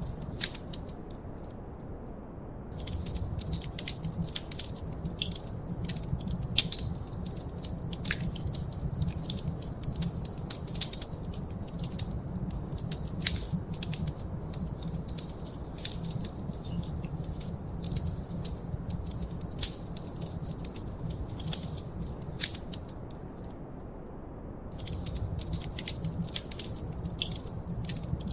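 Wood fire crackling in a fireplace: dense sharp pops and snaps over a low steady rumble. The crackling drops out briefly twice, about two seconds in and again a few seconds before the end.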